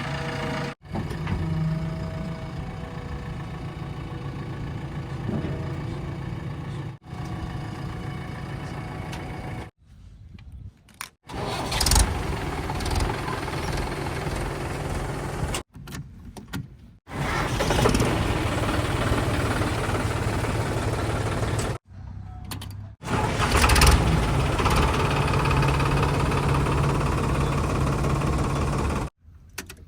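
Heavy machinery diesel engines running steadily, heard as a string of short clips joined by abrupt cuts with brief drops in sound between them.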